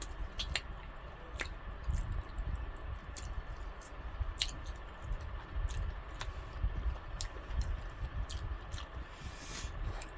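Close-up mouth sounds of a person chewing fried chicken, with wet smacking clicks scattered throughout.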